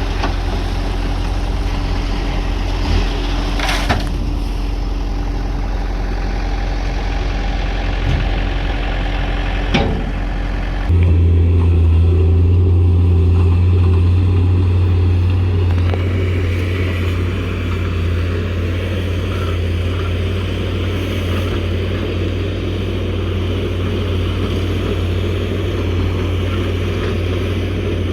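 Heavy machinery's engine running steadily, with a few sharp knocks in the first ten seconds. About eleven seconds in, its note changes and grows louder, then eases back about five seconds later.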